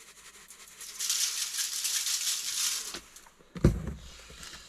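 A salt and pepper shaker shaken over food, the grains rattling for about two seconds. Then a single knock.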